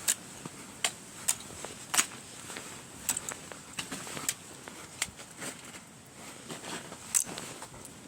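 Sharp, irregular cracks and clicks of ice, one or two a second, from icicles being knocked loose and crusted snow and ice underfoot.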